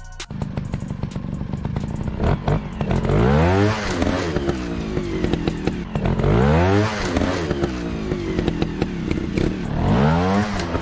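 Motorcycle engine running with a clattering rattle, revved up and back down three times.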